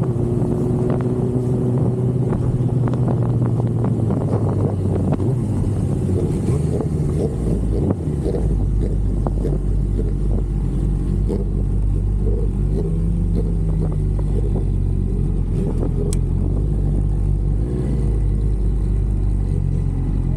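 Sport motorcycle engine running at a fairly steady note. The sound turns rougher a few seconds in, and the low rumble grows heavier about eight seconds in.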